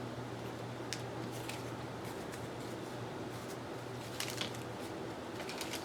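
Light clicks and rustles of paper pieces being handled on a craft table, with a little cluster of them about four seconds in and again near the end, over a steady low room hum.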